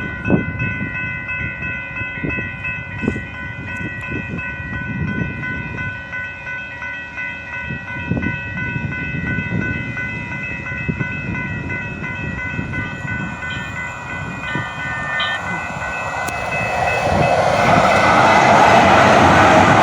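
Riding a train: a steady whine of several tones over low rumble and irregular knocks. Near the end a louder rushing noise builds and becomes the loudest sound.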